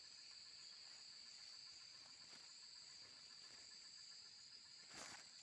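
Faint, steady, high-pitched trilling of night insects with no break. A brief soft noise comes near the end.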